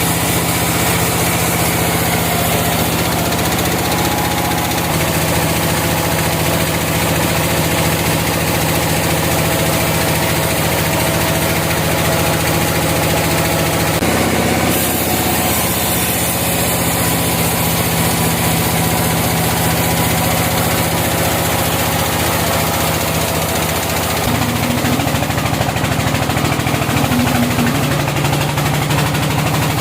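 Sawmill engine running steadily, its pitch shifting a few times.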